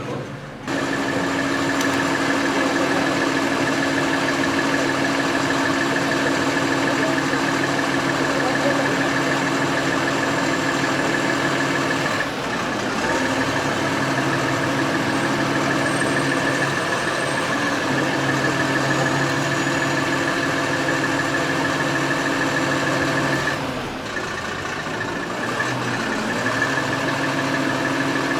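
An engine running steadily at constant speed with a high, even whine over it, as from a lifting vehicle's engine and hydraulics. It starts abruptly under a second in and dips briefly twice.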